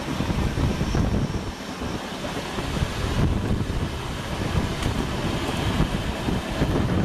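Indian passenger express running at speed: a steady heavy rumble of wheels on rail with wind on the microphone, as another train's coaches run close alongside on the parallel track.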